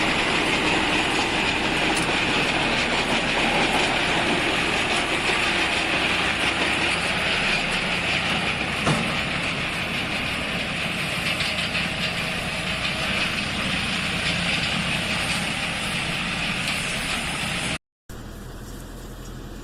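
Tractor-driven multi-crop baler running steadily, a dense mechanical clatter with one sharp click about nine seconds in. Near the end the sound cuts out briefly and comes back as a quieter engine hum.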